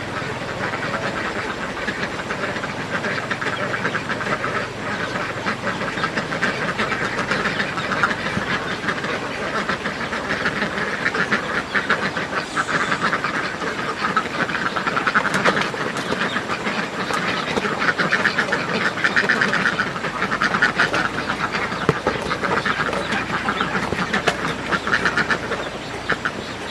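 A flock of ducks quacking continuously, many calls overlapping into a dense chatter that grows louder in the second half.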